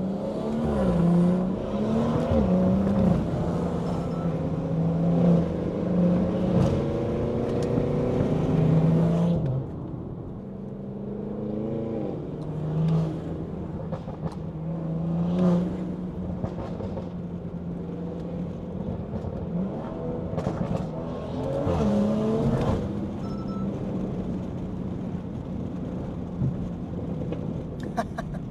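BMW 340i's B58 turbocharged inline-six and loud aftermarket exhaust under way on the road, its pitch rising and falling with the throttle. Loud for the first nine seconds or so, then it drops suddenly to a quieter, steadier cruise with a couple of brief swells in revs.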